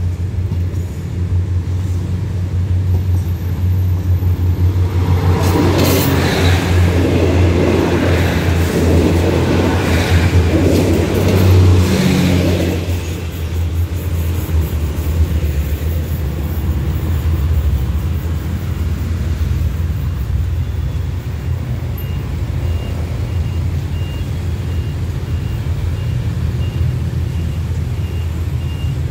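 Diesel-hauled passenger train passing over a level crossing. It is loudest between about five and thirteen seconds in, with the locomotive's engine and the rattle of wheels on rail. Then it drops back to a steady low rumble of engines as road traffic moves off, and a faint beeping repeats evenly near the end.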